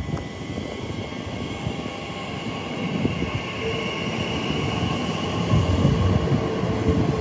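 A train running past on the rails: wheel-on-rail rumble that grows louder, with a steady high whine throughout and a lower steady tone joining about halfway through.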